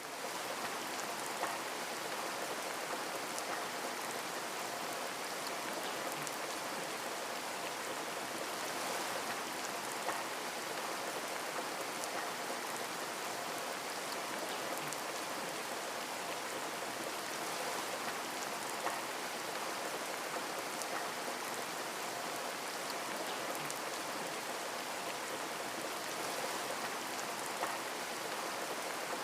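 Heavy rain falling steadily: an even, dense hiss with faint scattered drop ticks. It cuts in suddenly at the start.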